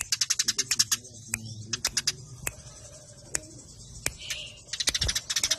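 Eurasian tree sparrows (burung gereja) chattering in fast, tight trains of sharp chirps: the agitated calling of sparrows fighting. A dense run for the first second thins to scattered single chirps, then a fast run starts again near the end.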